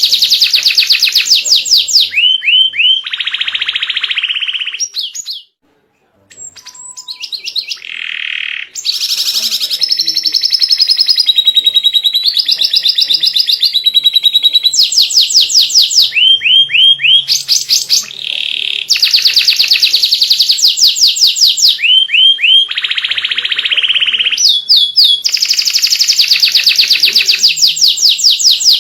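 Domestic canary singing a loud, long song of fast trills and rolling phrases, with a brief break about five seconds in.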